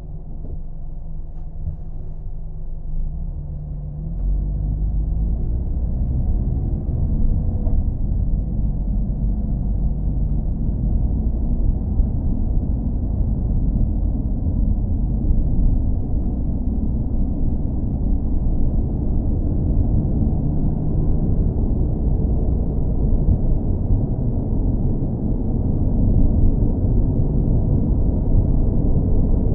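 Low, steady rumble of a moving car, engine and road noise together. It gets louder about four seconds in with a brief rising engine note, and louder again near the end.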